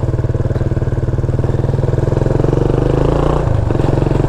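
An old motorcycle's small engine running as the bike rides off slowly, with a steady, even beat. Its pitch dips briefly about three and a half seconds in, then picks up again.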